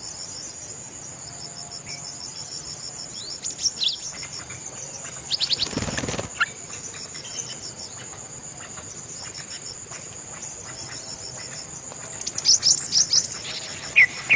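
Birds chirping in short sweeping notes, most busily near the end, over a steady high-pitched insect drone. A brief rustling noise comes about six seconds in.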